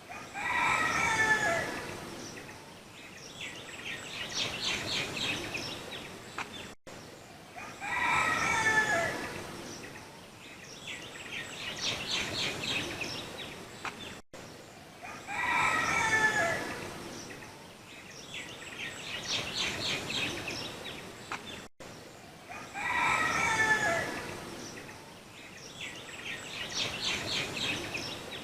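Rooster crowing, the same crow repeating about every seven and a half seconds, four times. Each crow is followed a couple of seconds later by a quieter run of short, rapid calls.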